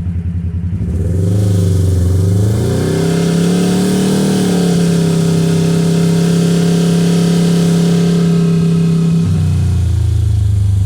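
Kawasaki KRX side-by-side's parallel-twin engine, breathing through an Alba aftermarket exhaust, idling and then revving up about a second in for a full-throttle 0–30 mph run. The CVT clutch holds the engine at a steady high rpm for several seconds while it pulls, then it drops back to idle about nine seconds in.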